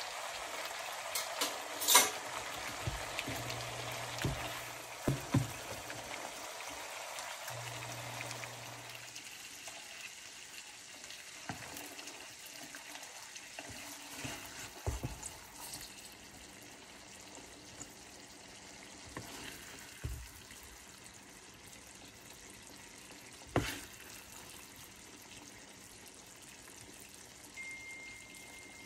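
Pork and long beans sizzling in a frying pan as they are stirred with a wooden spatula, with a few sharp knocks, the loudest about two seconds in. The sizzle fades about nine seconds in, leaving a faint background with occasional single clicks.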